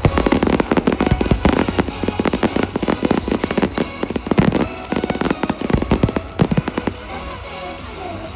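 Fireworks display: a rapid, dense volley of firework bursts, several bangs a second, thinning out about seven seconds in, with music playing underneath.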